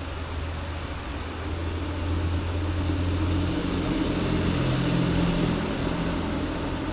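Low engine drone that swells to a peak and fades again, heard over the steady rush of water from a creek waterfall.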